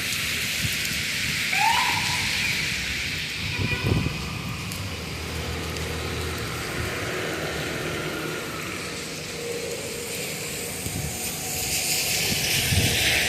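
City street traffic: a steady background of passing vehicles, with a short rising squeal about two seconds in and a low knock around four seconds. Near the end a vehicle passes with a rising hiss.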